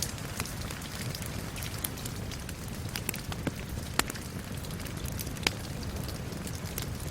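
Steady rain hissing, mixed with a crackling wood fire: irregular sharp pops and snaps, a louder pop about four seconds in and another near five and a half seconds.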